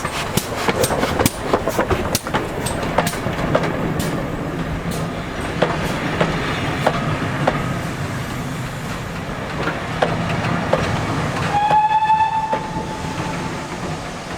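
Steam train running past, with rapid sharp clicks of wheels over the rail joints in the first few seconds over a steady rumble. About twelve seconds in, the locomotive's whistle gives one short toot lasting about a second.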